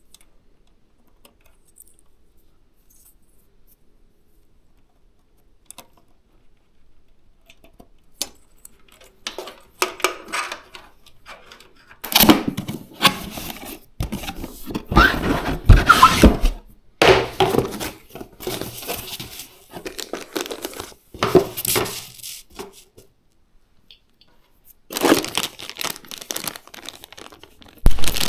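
Packaging of an AIO liquid cooler being handled as it is unboxed: cardboard and plastic rustled, crinkled and torn, with parts knocked against each other. This starts about twelve seconds in, after a stretch of faint clicks.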